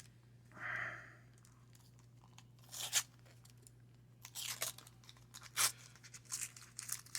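Wax-paper baseball card pack wrapper being torn and crinkled: a brief crackle about three seconds in, then a run of quick crackles from about four seconds in. A steady low hum runs underneath.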